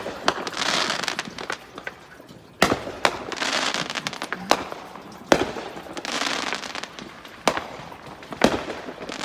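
Fireworks going off: sharp bangs every second or two, each followed by a long crackle.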